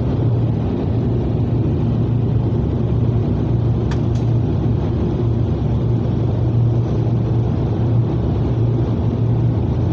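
Steady low machine hum with a constant rumbling hiss, heard from inside a car in a car wash bay, with one faint click about four seconds in.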